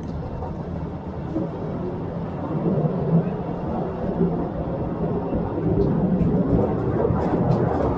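The open cars of the Postojna Cave tourist train running through a rock tunnel: a steady low rumble and rattle that grows a little louder, with a few sharp clicks in the second half.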